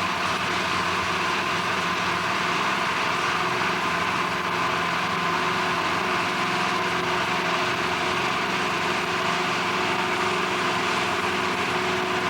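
Steady drone of a large engine or heavy machine running, with several fixed tones over a noisy rush and no change in level.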